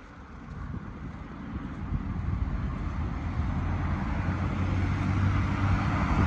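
A road vehicle's engine approaching, its low hum and tyre noise growing steadily louder.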